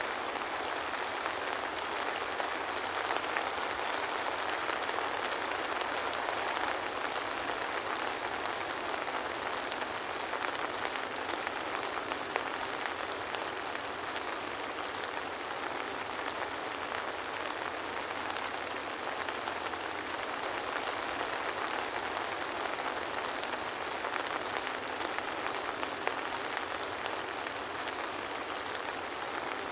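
Steady soft rain: an even hiss with many small drop ticks scattered through it.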